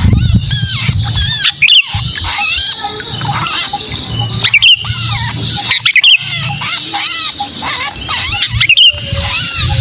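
Sooty-headed bulbuls giving 'kejepit' calls, the agitated distress calls of a trapped bulbul: a dense run of short, looping whistled notes with several loud, sharp calls. A low rumble runs underneath.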